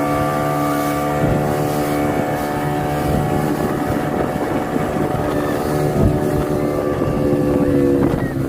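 Motorboat engine running at a steady pitch, towing a banana boat, with gusty noise over it; the engine note drops away shortly before the end.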